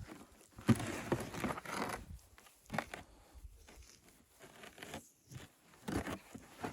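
Rustling and crinkling handling noises: a rough burst about a second long starting just under a second in, then a few short soft knocks.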